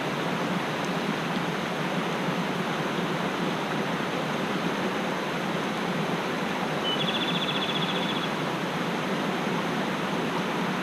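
Mountain stream rushing steadily. About seven seconds in, a bird gives a short note followed by a rapid high trill lasting about a second.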